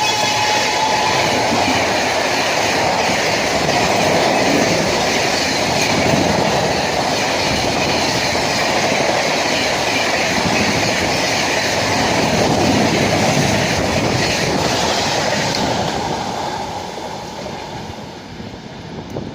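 Express passenger train behind a WAP-7 electric locomotive running past at speed, a steady rush of coaches with wheels clacking over the rail joints. The tail of the horn dies out at the very start, and the train noise fades away over the last few seconds as it moves off.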